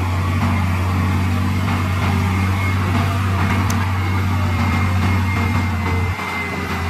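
Heavy diesel earthmoving-machine engine running steadily with a deep, even drone and a faint high whine over it. The level drops briefly about six seconds in.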